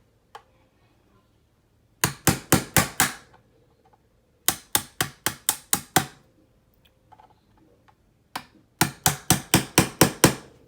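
Hard, sharp tapping in three quick runs of strikes, about five a second, with near silence between the runs.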